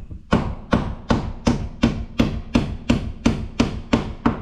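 A hand hammer driving a nail through T1-11 plywood siding into the framing: about a dozen sharp, evenly paced strikes, roughly three a second, tacking the panel in place.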